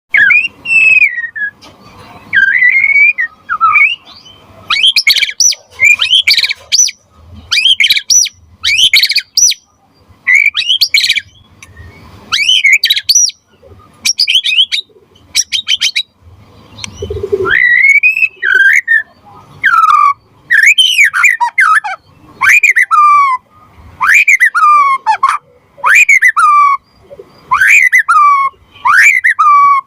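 A white-rumped shama singing loudly: varied whistled and rapid rattling phrases at first, then from just past halfway one falling whistled phrase repeated about once a second.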